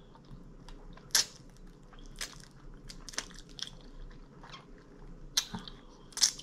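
A person chewing and biting into air-fried chicken wingettes, close to the microphone: sharp wet smacks and crunches come about once a second, the loudest about a second in and near the end.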